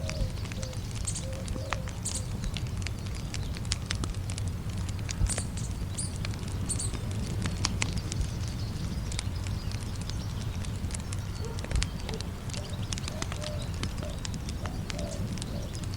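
Campfire crackling, with irregular sharp pops scattered throughout, over a steady low rush of a flowing river. Faint high bird chirps come in the first half, and short low bird calls near the start and again near the end.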